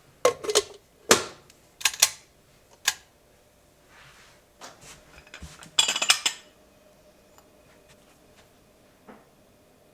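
Hard objects being handled: several separate sharp clacks, then a short quick clatter a little past halfway and one soft knock near the end.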